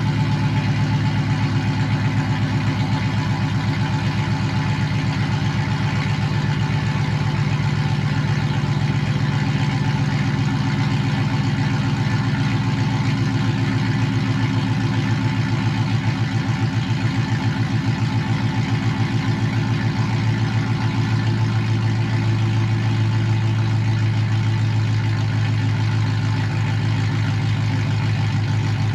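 Pickup truck engine idling steadily on a cold start after sitting about four days; the idle settles slightly lower about two-thirds of the way through, as a cold fast idle does when it comes down.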